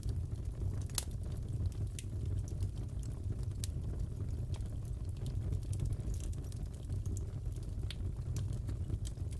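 Wood fire crackling in a fireplace: a steady low rumble of flames with scattered sharp pops and snaps, one louder pop about a second in.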